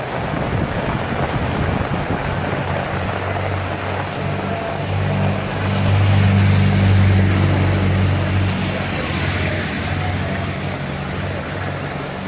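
Heavy rain falling steadily. A passing vehicle's engine hum swells a little before halfway and fades near the end.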